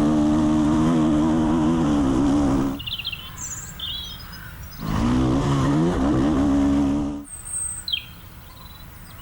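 Off-road dirt bike engines running at high revs in two loud stretches, the second climbing in pitch as it revs up, each cut off abruptly. Birds chirp in the quieter gaps between them.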